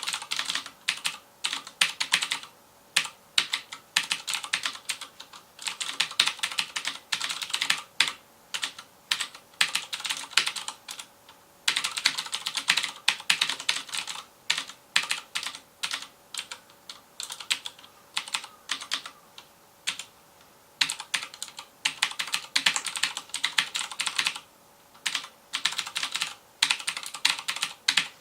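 Fast typing on a FILCO Majestouch Convertible 2 mechanical keyboard with Cherry MX Blue switches: rapid clicky keystrokes in bursts, broken by short pauses.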